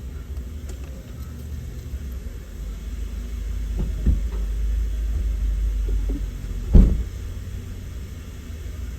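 Low steady rumble of a car wash heard from inside a car, with two thumps, the louder one about seven seconds in.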